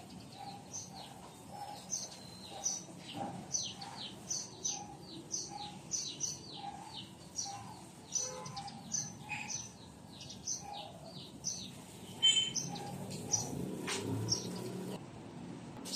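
Small birds chirping over and over, about two short high downward chirps a second, each with a lower note. A few knocks and some low rustling come near the end.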